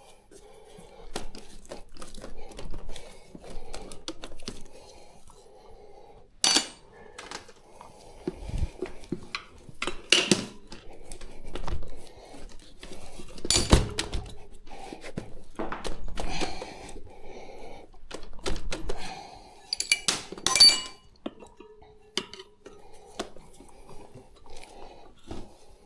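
Metal tyre levers clinking and knocking against a motorcycle wheel rim and each other as a tyre bead is levered over the rim, with rubber scraping between the strokes. The knocks are irregular, with the sharpest ones about halfway through and again later.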